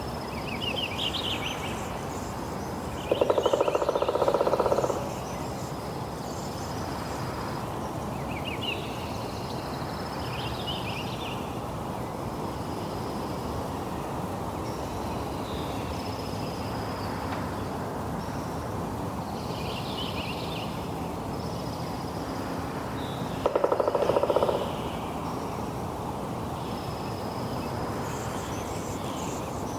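Steady rain hiss with birds chirping repeatedly above it. Twice, about 3 seconds and 23 seconds in, a louder pulsed animal call stands out for a second or two.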